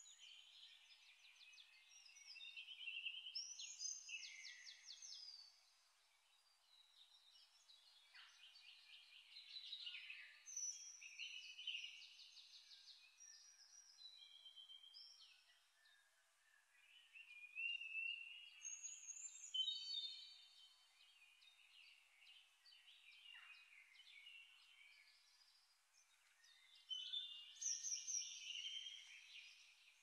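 Faint birdsong: bouts of high chirps and rapid trills with short lulls between them.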